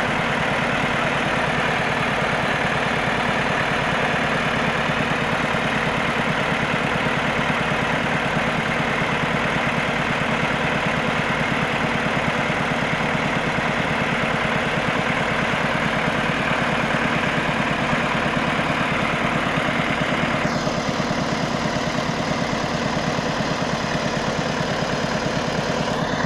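KAMAZ truck's diesel engine running steadily with an even firing pulse. About twenty seconds in, the higher hiss over it drops away.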